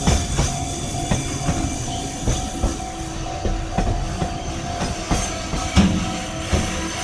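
Freight train passing, its wagons' wheels clacking over the rail joints with a steady rumble.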